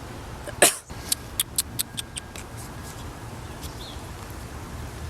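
Rain and hail falling with a steady hiss. About half a second in there is one short, loud rush, and after it a run of sharp, irregular ticks as drops strike the wet camera.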